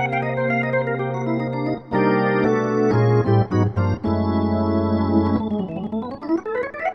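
Roland XP-80 synthesizer playing a factory preset with an organ-like tone: held chords over a sustained bass with quick runs of notes, the chords changing about two seconds in, and a rising run of notes near the end.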